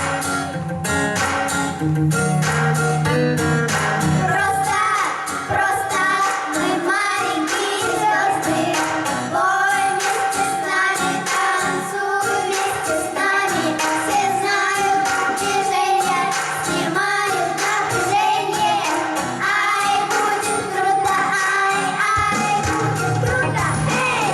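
Vocal ensemble singing a pop song over instrumental accompaniment with a steady beat.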